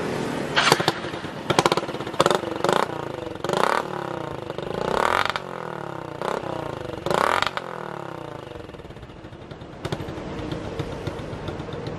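Motorcycle engine breathing through a bamboo exhaust pipe, revved repeatedly in quick blips that rise and fall in pitch, then dropping back to a steady idle for the last few seconds.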